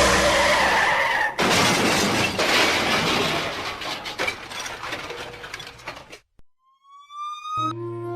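Loud rushing, clattering noise that fades a little and cuts off abruptly after about six seconds. After a short gap a single rising tone sweeps up and steady music with held notes starts near the end.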